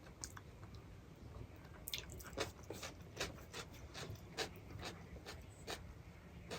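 A person chewing food close to the microphone: a run of short mouth clicks and crunches, about three a second, starting about two seconds in.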